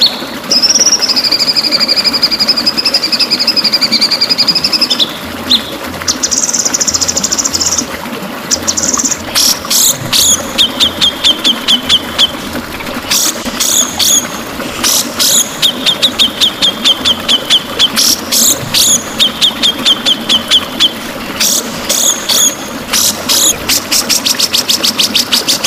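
White-rumped shama (murai batu) singing: a long wavering high whistle, then bursts of rapid trills and strings of sharp repeated notes, over a steady low background noise.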